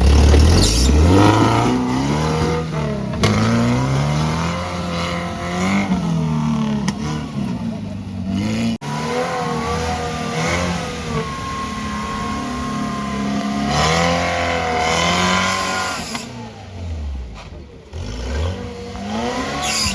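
Off-road 4x4 vehicle's engine revving hard, its pitch climbing and falling over and over as the throttle is worked, with a steadier held stretch in the middle and a dip in loudness about 9 s in.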